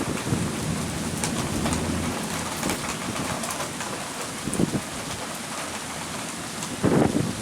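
Heavy thunderstorm rain falling steadily, with drops ticking on a nearby surface and a low rumble of thunder in the first two seconds. There are a few louder knocks of heavy drops, the biggest near the end.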